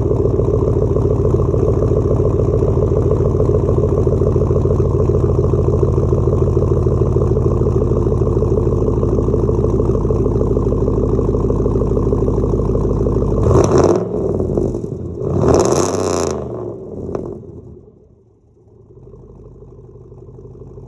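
2012 Chevy Silverado's 4.8-litre V8, straight-piped behind the factory catalytic converters with no mufflers, idling steadily after a cold start, then given two short revs about two-thirds of the way through. The engine sound falls away to a faint hum near the end.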